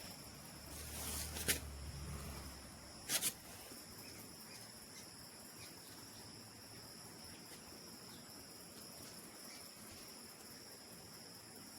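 Insects, likely crickets, chirring steadily in a high, even drone. A low rumble sounds in the first couple of seconds, with a sharp click about a second and a half in and a quick double click about three seconds in.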